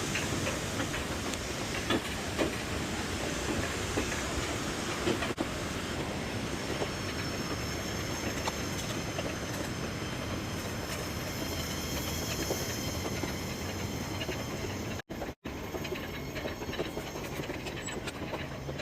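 Alpine coaster cart rolling along its steel rail track: a steady rumble and rattle with scattered clicks. The sound cuts out briefly twice about three quarters of the way through.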